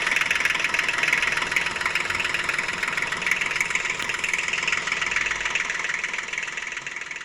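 Toy tractor running, a steady high buzzing whir with fine rapid ticking, easing off near the end.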